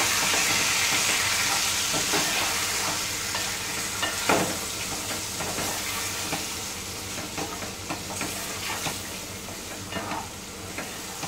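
Chicken pieces and spice masala frying in hot oil in an aluminium pot, sizzling while a wooden spatula stirs them, with occasional knocks and scrapes of the spatula against the pot. The sizzle slowly grows quieter.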